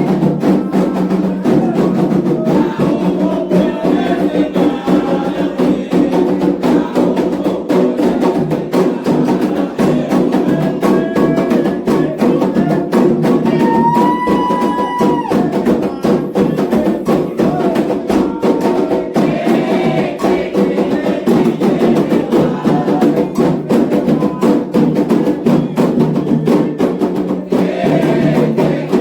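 Candomblé atabaque drums playing a fast, steady ritual rhythm with sharp clicking strokes keeping time and voices singing over it. A single held high note sounds briefly about halfway through.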